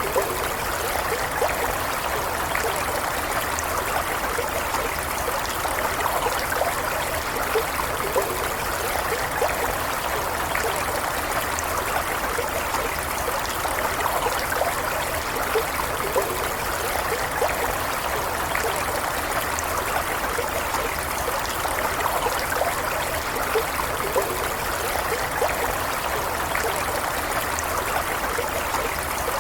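Small stream running steadily, with a constant gentle rush and many small splashes and gurgles of water over stones.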